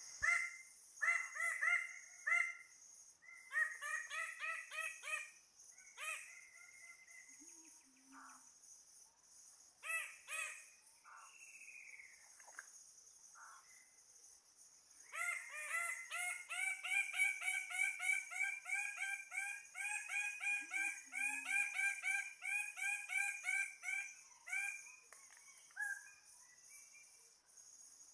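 Birds calling in long runs of quick, repeated harmonic notes, busiest in the second half, over a steady high drone of insects. A short low note sounds twice.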